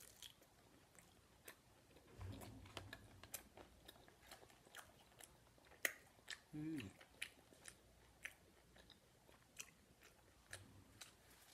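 A person chewing and biting a taco close to the microphone: quiet, scattered mouth clicks and smacks. There is one short hum about six and a half seconds in.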